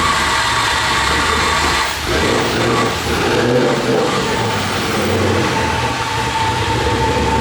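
Worn car engine running loudly and roughly, with the rattle that its owners call chain slap, the sign of a slack or worn timing chain. The engine is in very bad shape.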